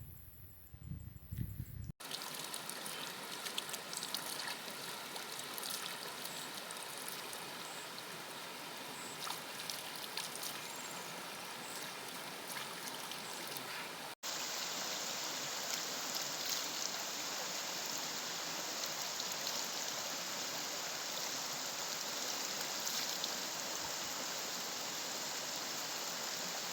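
Steady rush of flowing stream water. It cuts abruptly about two seconds in, then again about halfway through, where it becomes louder and more even. The opening moments are a low rumble instead.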